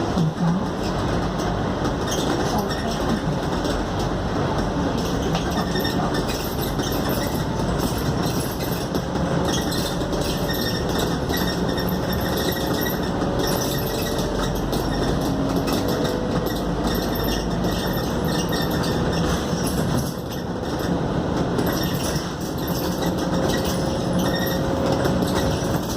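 Interior running noise of a Scania K280UD double-decker bus under way: steady engine and road noise with a faint whine that slowly rises in pitch several times, briefly easing about twenty seconds in.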